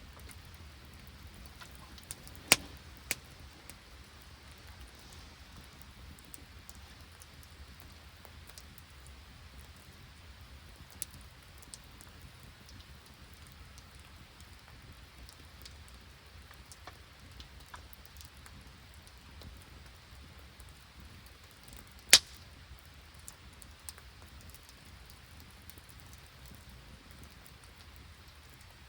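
Steady fine patter of falling rain and sleet, with a few sharp knocks or cracks standing out, the loudest about twenty-two seconds in.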